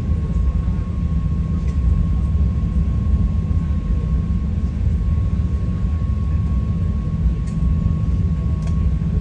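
High-speed ferry's engines running, a steady low rumble with a thin, steady high whine over it.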